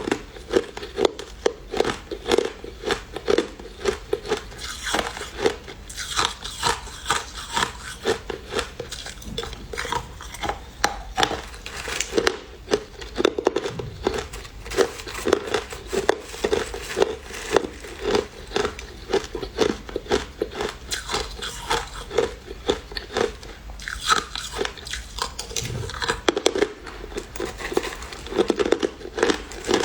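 Person biting and chewing crushed ice close to the microphone: a run of sharp, irregular crunches, about two or three a second.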